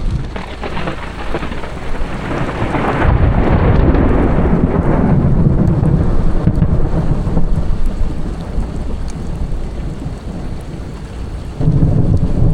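Thunder from a nearby lightning strike: a long low rumble that swells a few seconds in and then dies away, over heavy rain. Near the end a sudden louder low rumble sets in.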